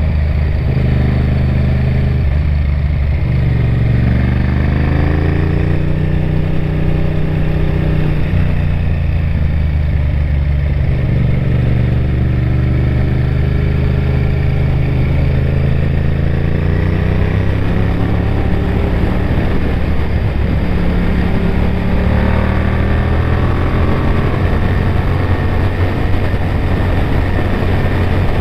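Honda VTR1000F Firestorm's 996 cc V-twin engine under way. Its note climbs and falls back several times as the bike accelerates and eases off.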